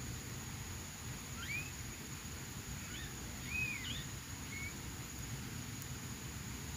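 A bird calling: a few short whistled notes, some sliding upward and some arching up and down, scattered over a steady outdoor background.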